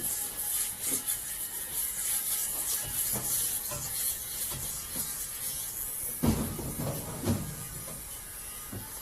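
Steady hiss with a few dull knocks, the two loudest about six and seven seconds in.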